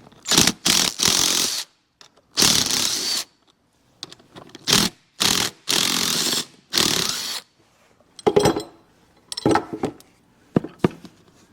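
Power driver running in about six short bursts over the first seven seconds, backing out the screws that hold the mower seat's suspension parts. A few light knocks follow near the end.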